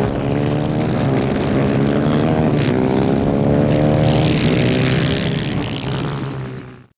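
250cc superkart engines running at high revs, their pitch rising and falling with the throttle. The sound drops away and cuts off suddenly near the end.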